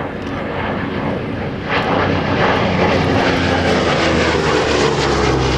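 Lockheed P-38 Lightning's twin Allison V-12 engines on a low photo pass. The engines grow suddenly loud about two seconds in, and the engine tone drops in pitch near the end as the aircraft goes by.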